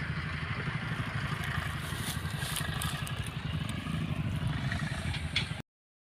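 Eicher 333 tractor's diesel engine running steadily at low revs with a fast, even pulse. The sound cuts off abruptly near the end.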